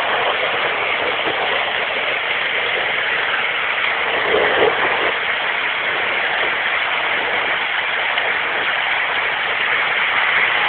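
Steady rushing hiss of heavy rain and running floodwater, even and unbroken.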